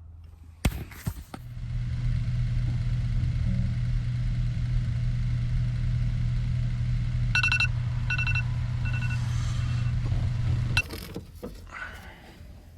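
A vehicle engine running steadily at idle with a low hum. It comes in after a sharp click, three short electronic chime beeps sound about seven to nine seconds in, and the engine sound cuts off abruptly near the end.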